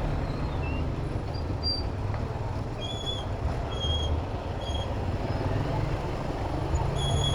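Steady low rumble of city traffic and wind on a moving bicycle's microphone, with short high-pitched squeaks, three in quick succession about three seconds in and another near the end.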